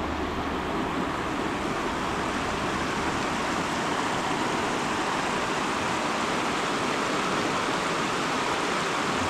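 Mountain river rushing steadily over rocks, a constant even hiss of flowing water.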